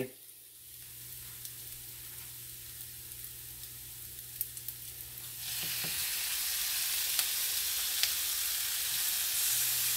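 Diced onions sizzling softly in a nonstick skillet on an electric range. About five and a half seconds in, pieces of raw chicken thigh go into the pan and the sizzle turns suddenly much louder and brighter, with a few small pops and ticks.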